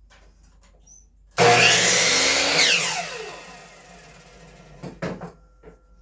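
Electric power saw starts suddenly and runs briefly through a 2x4. It then spins down with a falling whine that fades over about a second. A couple of short knocks of wood being handled follow near the end.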